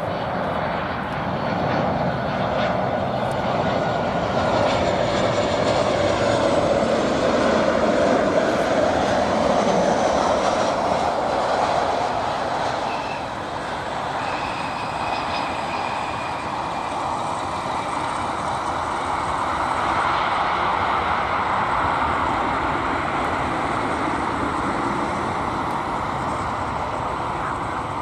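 Jet engines of an arriving Boeing 737-800 (CFM56 turbofans), a steady loud rushing roar that peaks about a third of the way in, eases, then swells again as the aircraft lands and rolls out.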